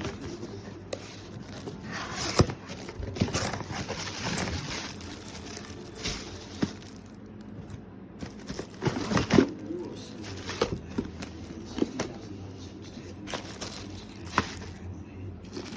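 Irregular crinkling and rustling with scattered sharp clicks and knocks, with faint voices underneath.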